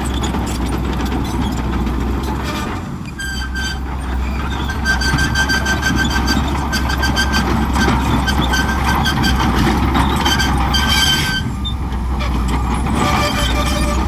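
Shantui crawler bulldozer at work: a steady low engine drone, with a run of clanking and a high squeal from its steel tracks from about three seconds in until near the end.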